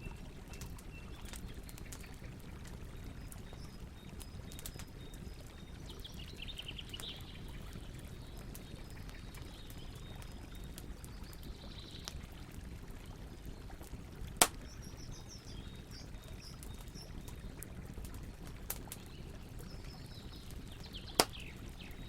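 Campfire crackling with scattered small pops and two loud sharp pops, one a little past the middle and one near the end. Birds chirp at intervals over a steady sound of flowing water.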